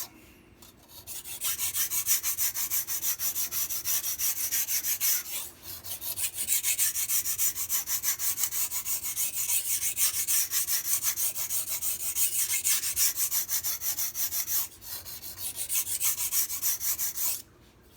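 MAC chef knife's steel blade being stroked rapidly back and forth on a sharpening stone, an even, gritty scraping in short strokes, with two brief pauses. One side of the edge is being sharpened until it is nearly done.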